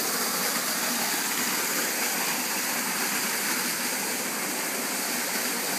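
Waterfall pouring steadily into its pool, a continuous rush of falling water.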